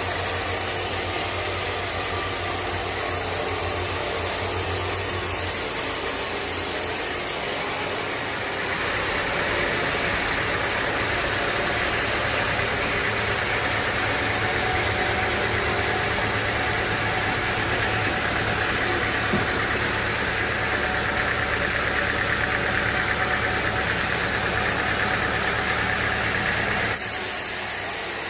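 Sawmill machinery running steadily: a continuous engine-like hum under a dense mechanical noise. The sound changes character about eight seconds in and again near the end.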